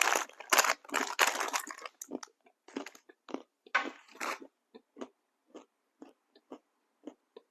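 A person biting into and chewing a crunchy snack close to the microphone. There are loud crunches over the first two seconds and again around four seconds in, then steady chewing about twice a second that grows fainter.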